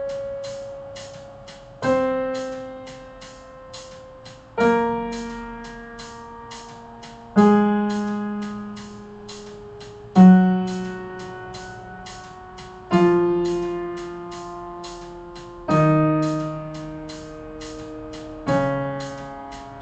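Piano playing a slow descending D-flat major scale in whole notes: seven notes struck about every three seconds, each left to ring and fade before the next.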